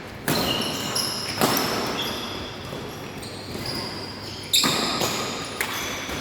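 Badminton rackets striking the shuttlecock during a rally: a handful of sharp, echoing hits spread over a few seconds, with short high squeaks of shoes on the court floor between them.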